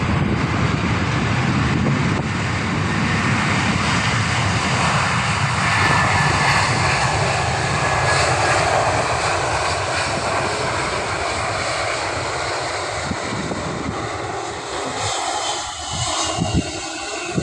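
Jet engines of a Philippine Airlines Airbus A321ceo: a steady rushing roar as the airliner passes, with a faint falling whine near the end. Wind buffets the microphone.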